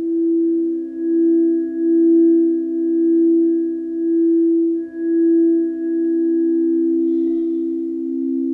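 Singing bowls ringing in long sustained tones: two close low pitches beat against each other, swelling and dipping about once a second, with fainter higher overtones above. A light tap sounds about seven seconds in, after which the tone holds steadier.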